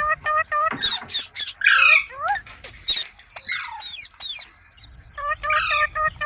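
Ringneck parrot calls: fast runs of short, evenly repeated chattering notes, a few screeches that sweep down in pitch, and sharp high-pitched calls. The rapid chatter comes back about five seconds in.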